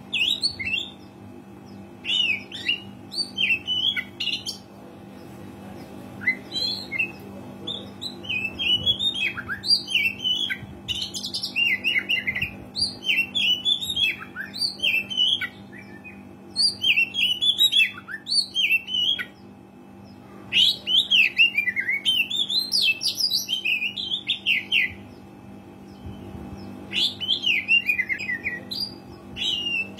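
Oriental magpie-robin (kacer) singing energetically: bursts of quick, varied whistles and chattering notes, with short pauses between bursts. A steady low hum runs underneath.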